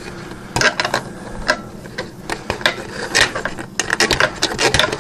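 Irregular clicks and light clatter of hand work with a wrench and parts at an air compressor's oil drain plug.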